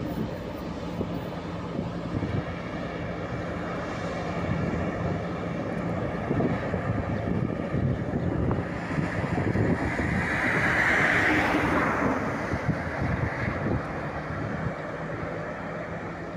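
Adtranz class 220 diesel-electric locomotive running steadily during shunting, its engine a constant low hum. About ten seconds in, a loud rushing hiss swells, peaks and fades over a few seconds.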